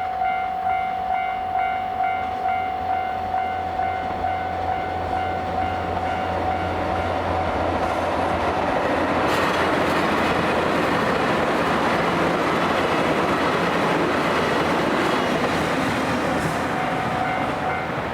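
Railway crossing bell ringing in rapid repeated strokes, about three a second. Then a JR Hokkaido Kiha 261 series diesel limited express passes over the crossing, a swelling rush of engine and wheel noise with a few sharp clacks over the rail joints. The bell comes through again near the end.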